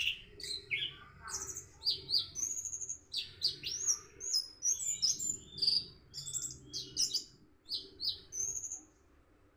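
Orange-headed thrush singing a fast, varied song of whistled notes and buzzy trills, with short pauses between phrases, and falling quiet just before the end.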